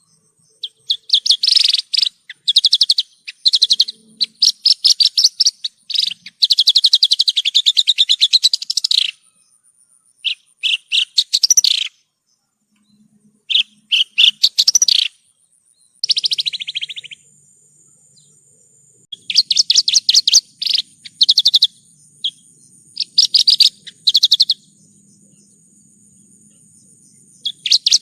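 Javan bush lark (branjangan) singing: bursts of rapid, trilled chattering phrases, each a second or a few seconds long, with short pauses between them.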